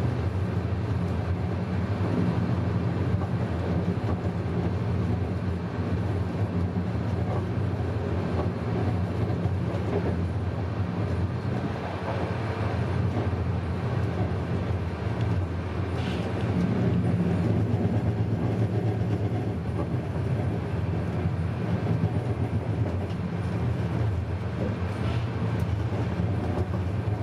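Passenger train running along the line, heard on board: a steady low rumble with a constant hiss of wheel and rail noise.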